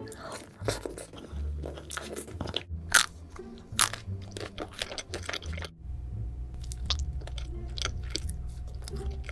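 Close-miked bites and chewing of crunchy chocolate treats: a run of sharp crunches, two loudest about three and four seconds in. About six seconds in the background changes to a steady low hum under more crunching chews.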